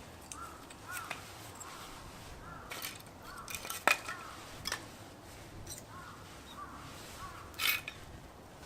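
Crows cawing repeatedly in the background, with a few sharp clinks and knocks, the loudest about four seconds in, and a short rustling scrape near the end.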